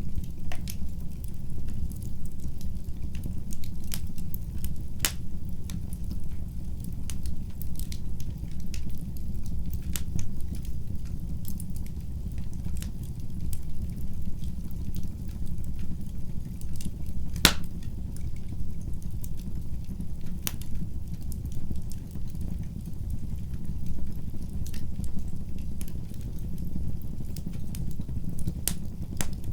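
Wood fire burning in a fireplace: a steady low rumble of flames with irregular crackles and pops scattered throughout. One sharper, louder pop comes a little past the middle.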